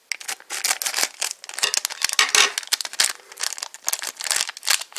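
Wrapper of a Yo-kai Medal blind pack being torn open and crinkled by hand, a run of irregular crackles.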